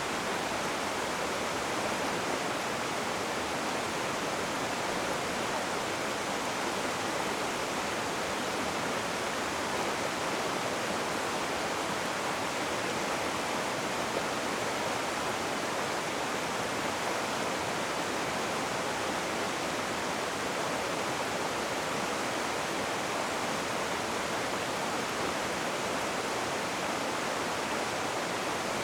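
Rushing river water: a steady, even rush of white-water noise with no change in level.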